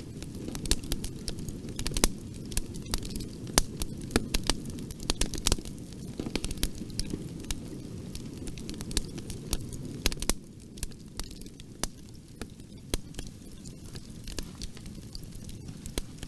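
Fire crackling in a fireplace: a steady low rumble of flames under frequent sharp pops and snaps, which thin out and the whole sound gets a little quieter about ten seconds in.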